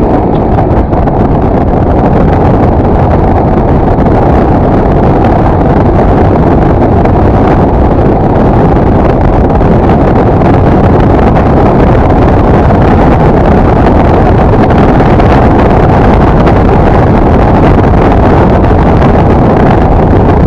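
Steady wind rushing and buffeting over the microphone of a moving motorcycle, a dense low rumble that covers the ride.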